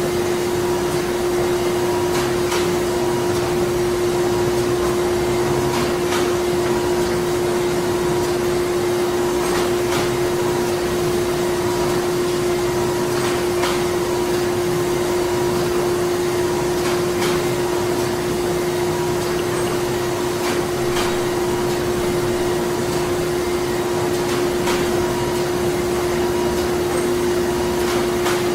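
Printing plant machinery running steadily: a constant hum holding one steady tone under broad mechanical noise, with a sharp clack about every four seconds and fainter clicks in between.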